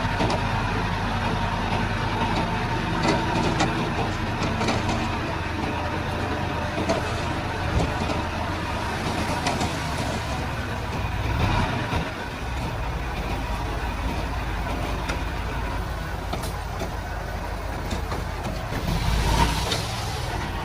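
Komatsu D31-P bulldozer's diesel engine running steadily while working, with a few faint knocks.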